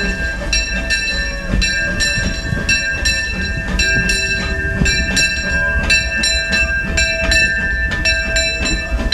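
Disneyland Railroad steam train: a steady high-pitched whine over a low rumble, with sharp metallic clicks several times a second.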